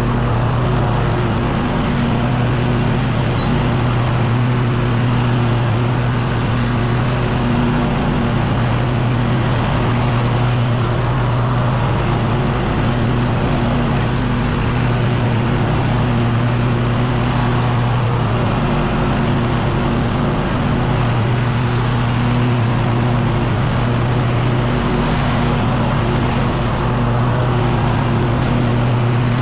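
Echo PB-9010T backpack leaf blower's two-stroke engine running steadily, with the rush of air from the blower tube.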